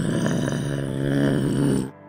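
Serval growling: a low, raspy, pulsing growl that cuts off abruptly just before the end.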